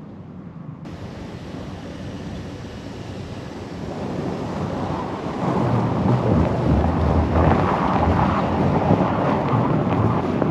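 Gusty wind buffeting the microphone, a rumbling rush that strengthens about halfway through.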